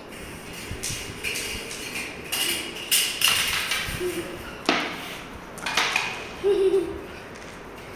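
Irregular scratching, rustling and light clattering of a playing Persian kitten, with sharper clatters about three, four and a half, and six seconds in, and a few short low sounds.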